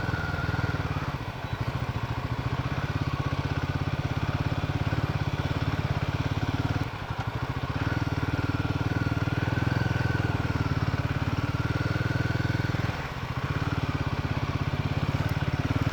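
Royal Enfield Himalayan motorcycle's single-cylinder engine running steadily while being ridden, its drone dipping briefly three times as the throttle is eased.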